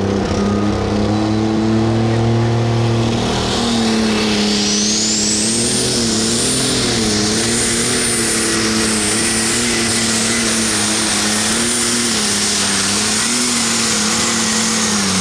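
Super stock pulling tractor's turbocharged diesel engine running at full load through a pull, its note steady apart from a brief waver partway through. A high turbo whine climbs over about two seconds starting around four seconds in, then holds.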